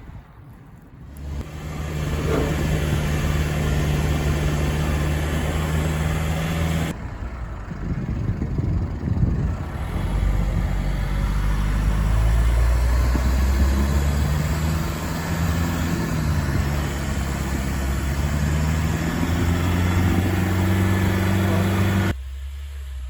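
A motor vehicle's engine running, its low hum shifting in pitch with the throttle, with sudden changes in the sound about 7 and 22 seconds in.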